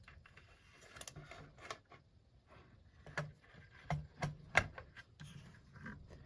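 Light clicks and taps of small metal parts being handled as an RCA Victor 45-J record changer's mechanism is taken apart. The clicks are scattered and come closest together about four seconds in.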